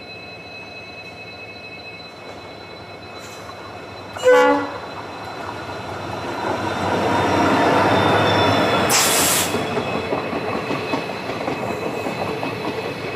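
A train horn gives one short blast about four seconds in. Then an Indian Railways diesel locomotive and its train build up and pass close by, engine and wheels loudest a few seconds later, with a brief hiss near the peak. The steady rumble of the Rajya Rani Express passenger coaches rolling over the rails follows.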